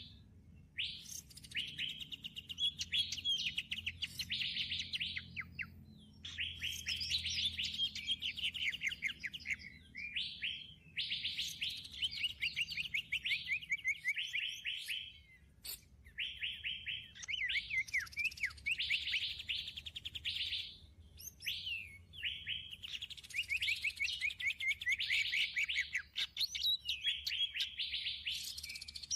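Songbird chirping in rapid, high trilled phrases of about two to four seconds each, repeating about six times with short pauses in between.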